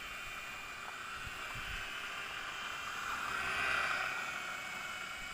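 Mini RC helicopter's small electric motors and rotor whining steadily, growing louder between about three and four seconds in, then easing off. There are a couple of low thumps about a second and a half in.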